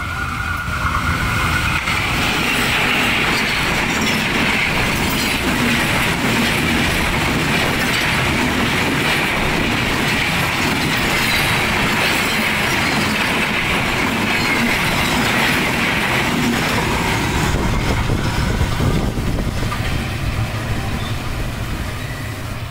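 A train running past close by: a loud, steady rush of wheel and carriage noise that builds over the first couple of seconds and eases off near the end.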